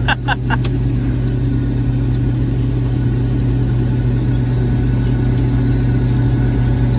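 Combine harvester running steadily while cutting soybeans, heard as a constant low engine and machinery drone from inside the cab. A few short clicks sound in the first second.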